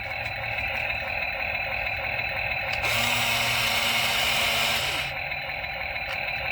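Small electric motors of a toy RC excavator whirring steadily. A louder whir joins from about three to five seconds in.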